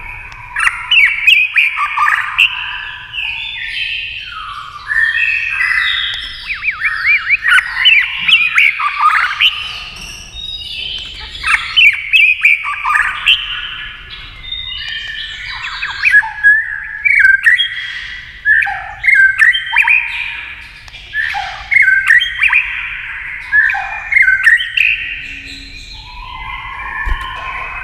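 White-rumped shama singing a long, varied song of quick whistled, sweeping and clipped notes, some harsh, delivered in loud phrases one after another.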